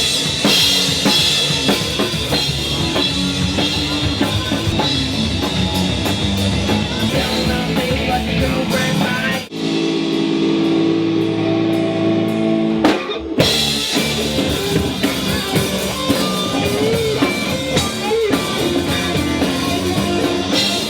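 Live rock band playing an instrumental passage on drum kit, electric guitars and bass guitar. About ten seconds in the drums drop out for a few seconds while held chords ring, then the full band comes back in.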